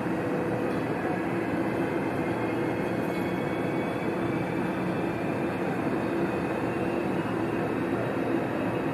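ICE 4 high-speed train (DB class 412) rolling slowly into an underground platform, a steady running hum with faint low tones from its running gear and traction equipment.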